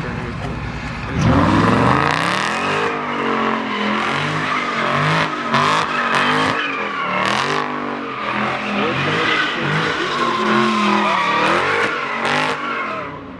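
A car engine revved hard and repeatedly, jumping up about a second in and then rising and falling in pitch again and again.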